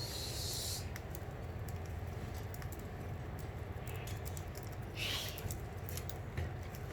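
Budgerigars cracking and husking seeds: many small, irregular clicks over a steady low rumble, with a short hiss at the start and another about five seconds in.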